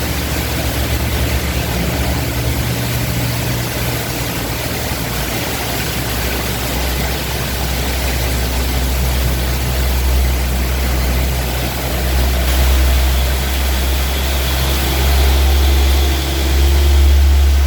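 Heavy tropical downpour hissing steadily, with strong wind buffeting the microphone as a low rumble that swells in gusts a few times in the second half.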